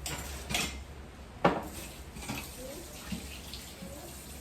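Water running from a tap into a sink, with a few clinks and knocks of dishes; the loudest knock comes about a second and a half in.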